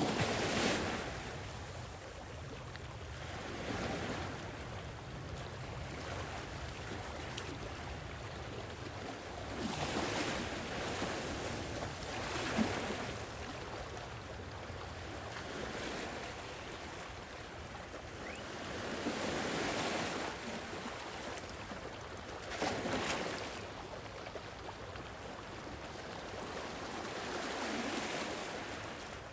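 Sea waves breaking and washing on a shore, a surge every few seconds over a steady background of surf.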